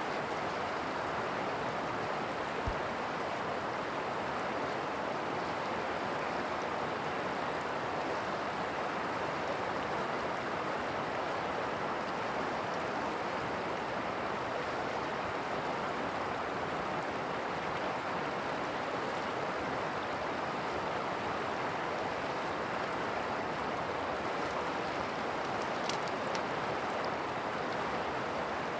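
Rushing river water: a steady, even rush of flowing water with no breaks.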